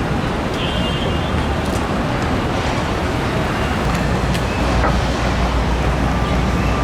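City street traffic: steady engine and road noise, with a heavier low engine drone setting in about four seconds in. No siren is sounding.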